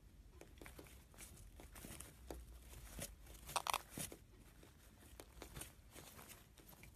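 Faint, irregular small clicks and crinkling, loudest about three and a half seconds in.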